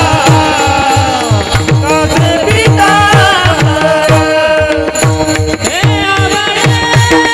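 Marathi devotional bhajan (panchapadi) being sung with hand-drum accompaniment: regular drum strokes about three a second with a falling bass note, a held drone tone underneath, and a wavering sung melody.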